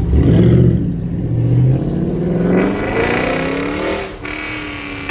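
A high-performance car engine being revved hard and loud. After an opening burst, its pitch climbs steadily for about two seconds, then it drops off suddenly about four seconds in and settles to a lower steady running sound.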